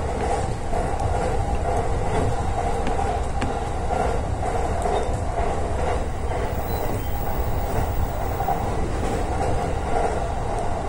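Keiyo Line electric commuter train running between stations, heard from inside the front car just behind the driver's cab: a steady, even running noise of wheels on rail and the running gear.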